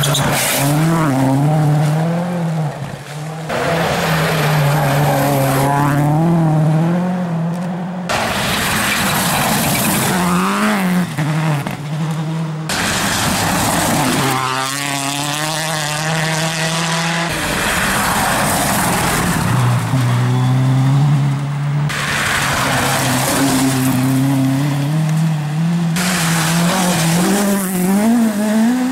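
Rally cars at competition pace, engines revving hard and dropping through gear changes as they pass, in a run of short separate passes every few seconds.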